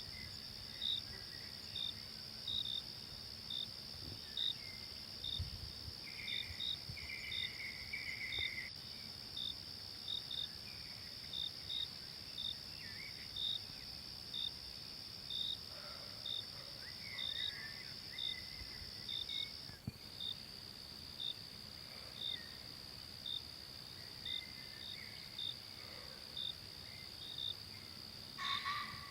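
Forest insects: one trills without a break on a high steady note, which shifts slightly lower about two-thirds of the way through. Over it a second insect chirps regularly, a little faster than once a second. A few faint bird-like calls come and go.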